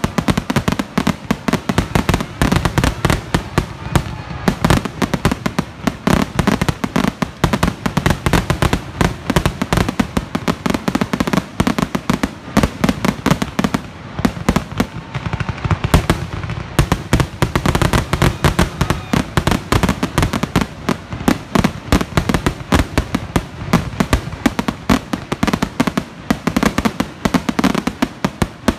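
Aerial firework shells bursting in a dense, unbroken barrage, several bangs a second overlapping one another: the finale of a fireworks display.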